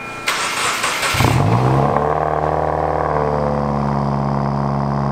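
2015 Subaru WRX's turbocharged flat-four cold-starting through a custom 304 stainless exhaust. A brief crank, then the engine catches about a second in and the revs flare up before settling into a steady idle.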